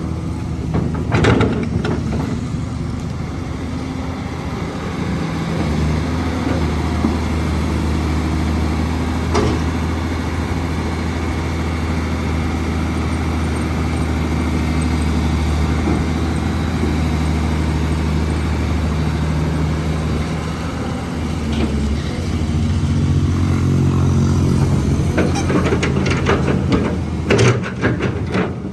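Diesel engine of a Caterpillar 320 excavator running steadily under working load, its note picking up a few times. Short sharp knocks sound now and then, with a quick cluster of them near the end.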